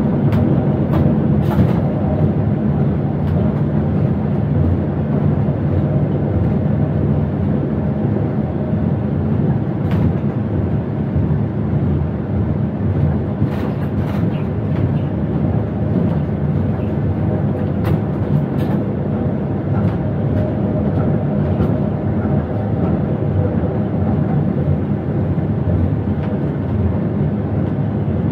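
Electric passenger train running at speed, heard inside the driver's cab: a steady low rumble of wheels on rail, with a few sharp clicks.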